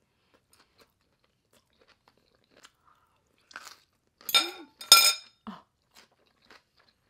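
Close-up chewing of a mouthful of poke bowl with crunchy raw vegetables such as yellow bell pepper. Faint wet mouth clicks come first, then a few loud crunches about four to five seconds in.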